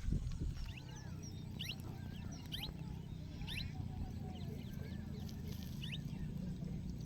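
Small birds chirping in short, quick calls, roughly once a second, over a steady low rumble.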